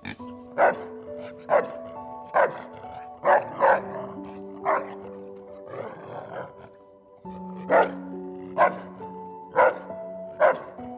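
Background music with held notes, over an animal's short sharp calls repeated about once a second.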